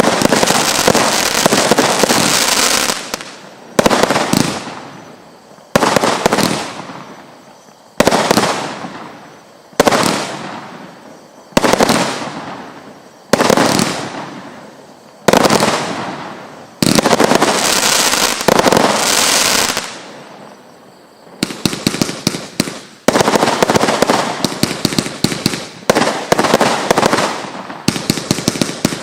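A 'Hurricane Force' consumer firework cake firing. It opens with a spell of crackling, then fires about eight shots roughly two seconds apart, each breaking into crackle that fades away. Near the end comes a dense run of rapid crackling.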